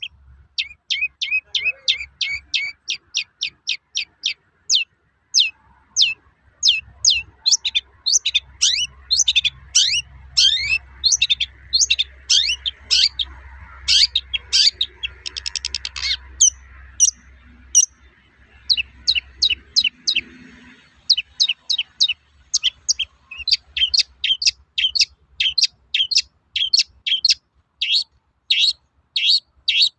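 Long-tailed shrike (cendet) calling its rapid 'toet-toet' song: a long series of short, sharp, high notes, about two or three a second, with a brief harsh rasp near the middle and a short pause about two-thirds through.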